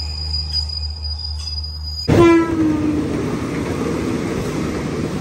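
A train horn sounds about two seconds in, its pitch dropping as it passes, followed by the steady rumble of the passing passenger train's wheels, heard from a train window. Before the horn, a steady low hum.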